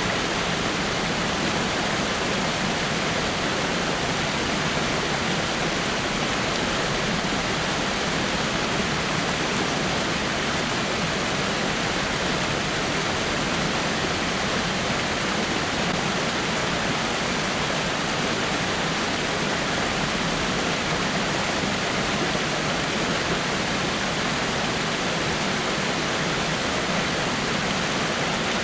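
Water falling over rocks in a small waterfall: a steady, even rush with no pauses or changes.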